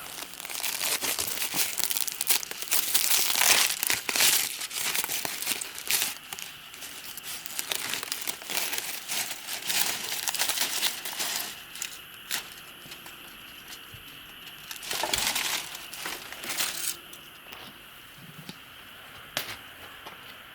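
Crinkling and crumpling of a thin material being handled, in irregular bursts. It is busy for the first half, then quieter, with two short flurries later on.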